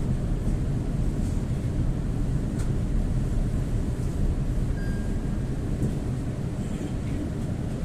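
EP2D electric multiple unit running at speed, heard from inside the passenger car: a steady low rumble with a few faint clicks.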